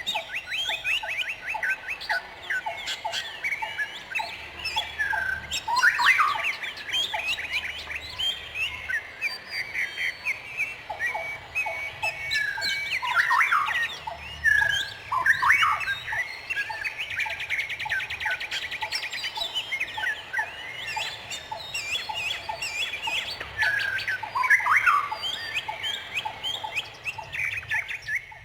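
Several songbirds chirping and calling over one another in quick short notes. A fast, even trill runs for a couple of seconds past the middle.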